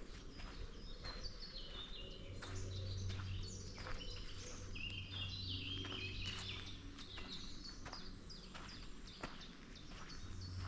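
Woodland birds singing, with runs of chirps that step down in pitch in the middle and scattered calls throughout, over soft footsteps on a forest path.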